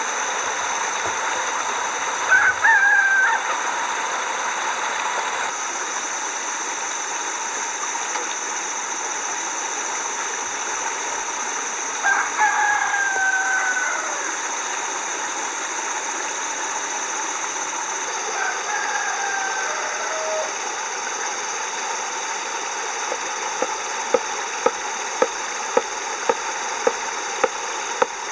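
A rooster crowing three times, the middle crow the longest, over a steady rushing hiss. Near the end come a run of regular sharp knocks, a bit under two a second.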